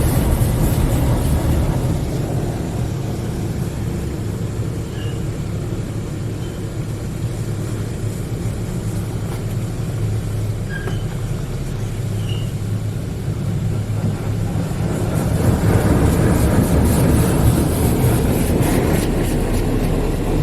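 Hydro Spray Classic in-bay automatic car wash spraying water over the car, heard from inside the cabin: a steady low hum under a hiss of spray that is heavier near the start and again from about two-thirds of the way in, with a few faint squeaks.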